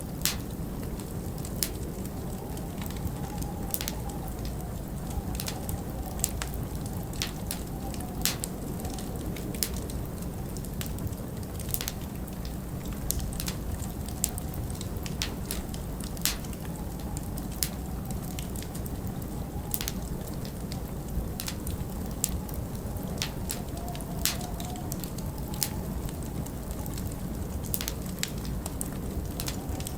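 Log fire crackling with irregular sharp pops over a steady low rush of blizzard wind, with a faint wavering whistle in the wind.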